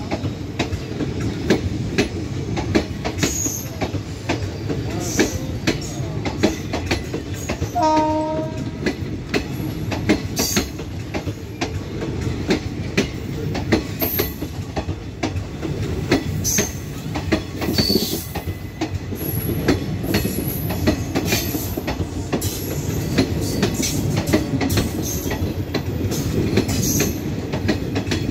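Express train running past, its wheels clattering steadily over the rail joints, with a short train horn blast about eight seconds in.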